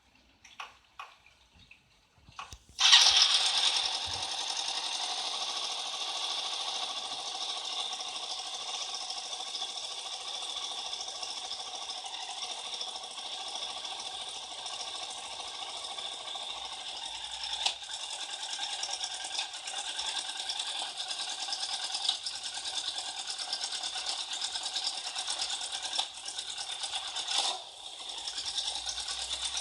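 A small motor and gear mechanism whirring and rattling steadily, starting suddenly about three seconds in after a few light clicks, with a brief dip near the end.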